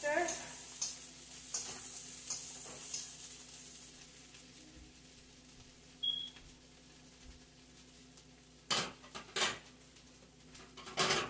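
Cauliflower fried rice with shrimp sizzling in a wok while a spatula stirs and scrapes through it, the strokes coming about once a second and the sizzle dying away after about four seconds. Near the end come a few louder sharp scrapes or knocks of the spatula against the wok.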